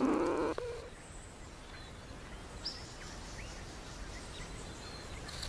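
Faint outdoor background with a few short, scattered bird chirps. A louder scratchy rustle dies away in the first half second.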